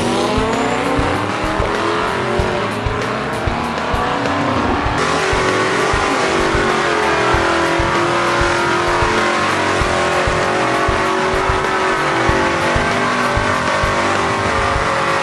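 Drag-racing car engines running loud and revving, with the pitch climbing near the start as a car accelerates.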